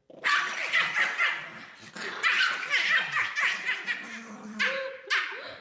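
People laughing in repeated bursts.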